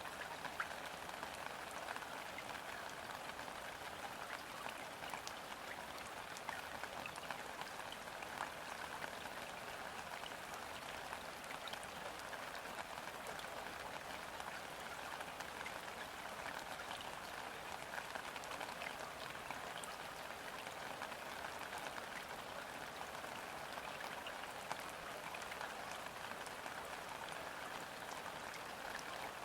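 Gentle rain falling steadily on the surface of a river: a dense, even patter of countless small drops, with no wind and no thunder.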